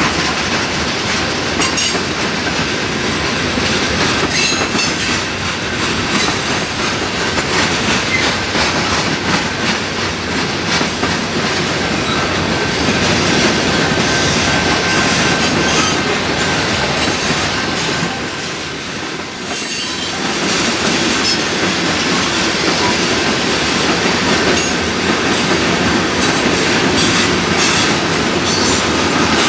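BNSF freight train cars rolling past, with steady wheel-on-rail noise, clanks, and wheels squealing at times. There is a brief drop in loudness a little past halfway.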